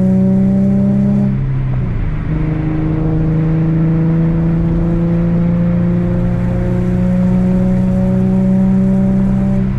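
Infiniti G37's 3.7-litre V6 through an ISR single-exit exhaust with resonated test pipes, under gentle acceleration on the highway with a low drone. The engine note climbs slowly, breaks briefly about two seconds in, as at a gear change, then climbs slowly again.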